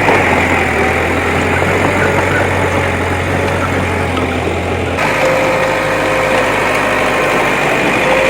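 Diesel engine of heavy earthmoving machinery running steadily, with an abrupt change in its sound about five seconds in.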